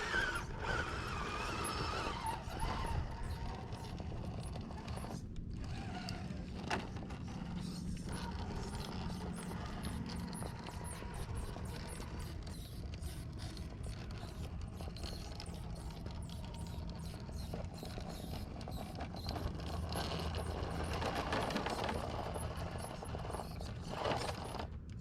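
Electric motor and geared drivetrain of a 1/10-scale RC rock crawler whining as it is driven over boulders, swelling near the start and again near the end.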